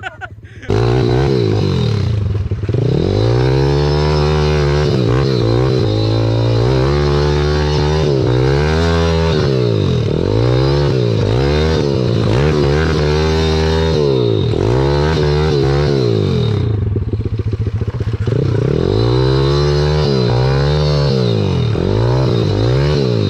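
Pit bike's small single-cylinder engine revved hard again and again, its pitch rising and falling about once a second. The rear wheel is spinning on slippery river rock and the bike is making no headway through the river.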